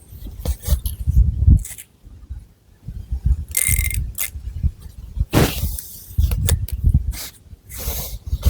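Long fingernails scratching through thick hair and over the scalp, close to the microphone, in uneven strokes of rustling and scraping.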